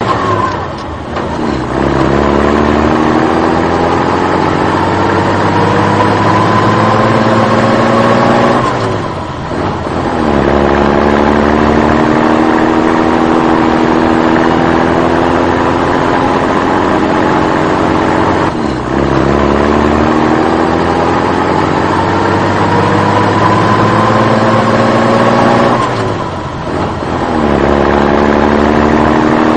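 Truck engine revving, climbing slowly and steadily in pitch for about eight seconds, then dropping back and climbing again, about four times over in near-identical cycles like a looped sound effect.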